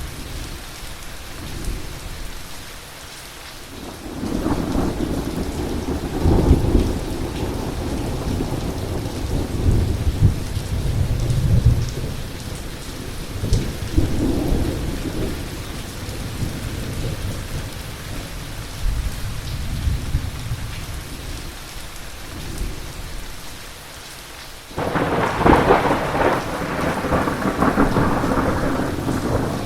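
Heavy rain with rolling thunder. Long low rumbles build from about four seconds in and come and go, then a sudden loud thunderclap breaks near the end and rumbles on.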